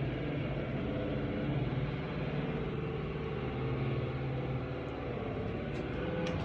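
Steady low mechanical drone with a hum, construction machinery heard through the apartment's walls and floors, with a few faint ticks near the end.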